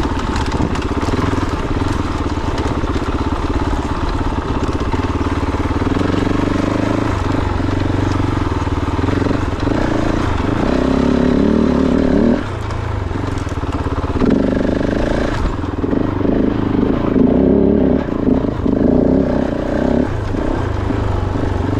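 Kove 450 Rally's single-cylinder four-stroke engine working at low speed over rocky single track, the throttle opening and closing in repeated bursts, with a brief drop in engine note about twelve seconds in.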